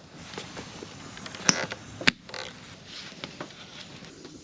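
Wood campfire crackling, with scattered small ticks and two sharp pops about one and a half and two seconds in.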